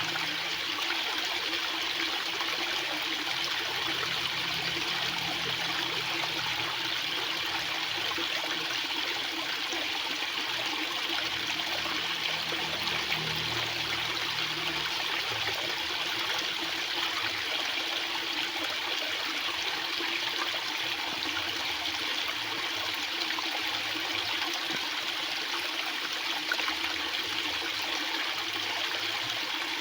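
Water flowing very fast, a steady even rush with no pauses or changes.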